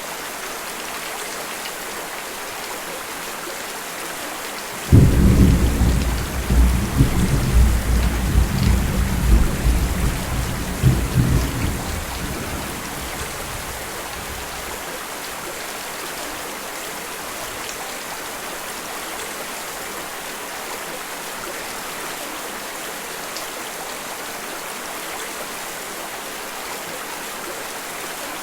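Steady rain with a sudden clap of thunder about five seconds in. The thunder rumbles and crackles for several seconds, then fades back into the rain.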